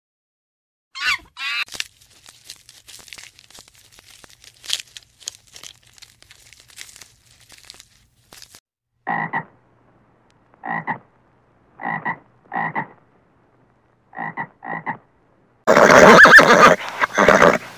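A short squeal, then faint crunching as a giant panda chews a bamboo shoot. Then six short croaking calls, and near the end a horse neighing loudly.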